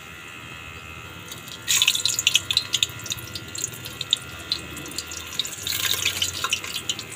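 Round gourds (tinda) sizzling and crackling in hot oil in an aluminium pot. The sizzling breaks out suddenly about two seconds in as more gourds go into the oil, and swells again near the end.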